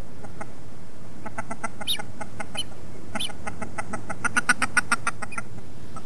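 A bird calling in a fast run of short, clicking notes, about seven a second, with two brief rising whistles among them, over a steady background hiss.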